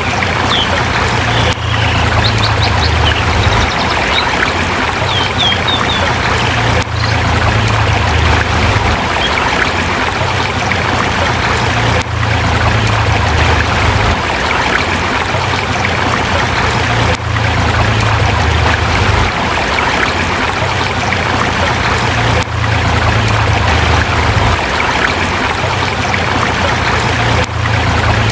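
Forest river rushing steadily over rocks, a loud continuous flow of water with a deep low rumble, dipping briefly in level about every five seconds. A few high bird chirps sound in the first few seconds.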